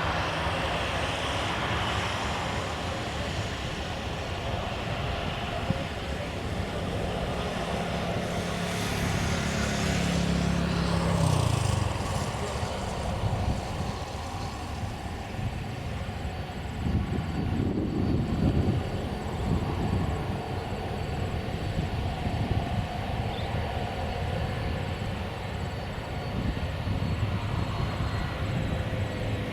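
Airliner engines running as an aircraft passes, with a steady low tone that drops in pitch about eleven seconds in; wind gusts on the microphone.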